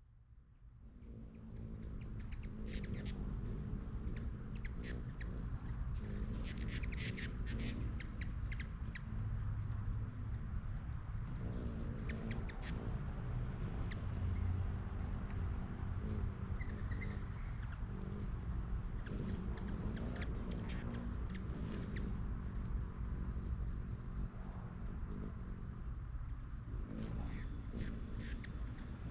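A cricket chirping: a high, evenly pulsed call of about four or five chirps a second. It stops for a few seconds midway and then resumes.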